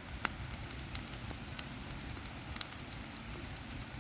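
Wood campfire crackling, with scattered sharp pops, the loudest about a quarter second in, over a low steady rumble.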